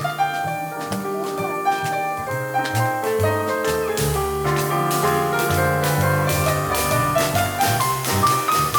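Live jazz trio of acoustic piano, double bass and drum kit playing an instrumental passage, piano notes over a moving bass line, with the drums' cymbal strokes growing more prominent about a third of the way through.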